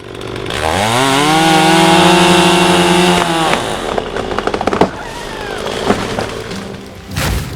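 Tigercat 568 processing head's hydraulic chain saw spinning up with a rising whine, running steady for about two seconds, then winding down. After it come a run of sharp cracks and clicks and a short loud rush of noise near the end.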